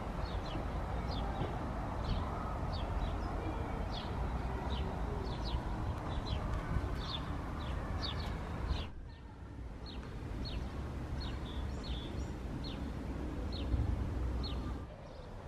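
A small bird chirping over and over, short high chirps that slide down in pitch, about two a second, over a low steady outdoor rumble of distant traffic and wind. The background rumble drops abruptly about nine seconds in and again near the end, while the chirping carries on.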